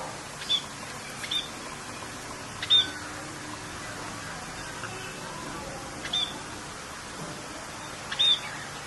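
A bird giving a short, high, arched call five times, a second or two apart, over a steady hiss of rain.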